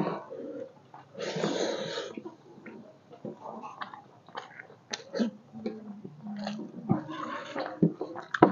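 Close-miked eating sounds: a man chewing mouthfuls of rice with yogurt curry, with many wet smacks and clicks, two longer hissy stretches about a second in and near the end, and a short low hum in the middle.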